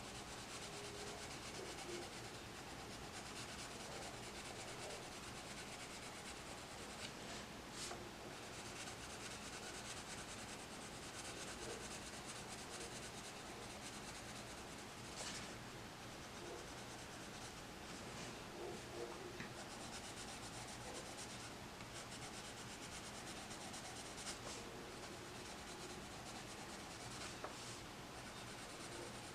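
Coloured pencil shading on paper: a soft, steady scratchy rubbing of the lead going back and forth, with a few faint ticks.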